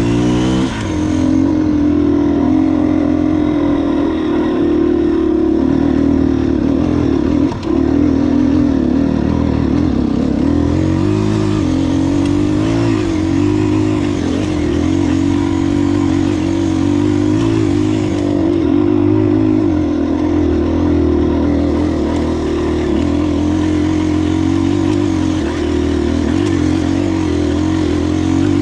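KTM 250 EXC-F enduro dirt bike engine running steadily under throttle while riding, its pitch wavering slightly as the throttle changes. A brief dip in the engine note comes about seven and a half seconds in.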